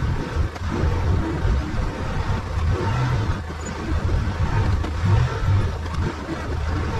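Arctic Cat side-by-side's engine running with a low rumble that swells and eases every second or so.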